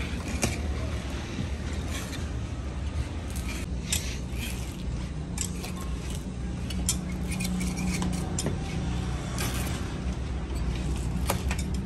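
A machine motor running steadily with a low drone, with scattered sharp metallic clinks and clicks over it.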